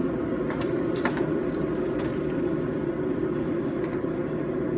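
A forge running with a steady rushing roar, with a few light metallic clicks and clinks in the first second and a half.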